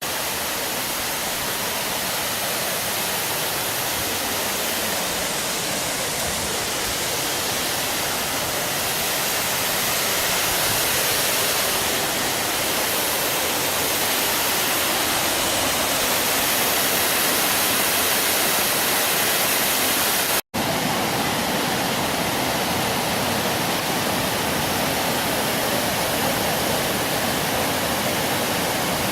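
Waterfall: a steady, loud rush of falling water, broken once by a momentary gap about two-thirds of the way through.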